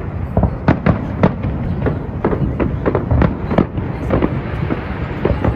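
Fireworks going off in quick succession: many sharp bangs and crackles, several a second, over a continuous low rumble from a large display.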